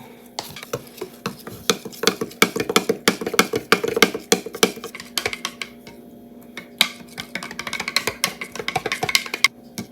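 Collagen and sea moss powder being stirred into a cup of iced tea, with rapid clinks of the utensil against the cup. The stirring pauses for about a second just past the middle, then starts again.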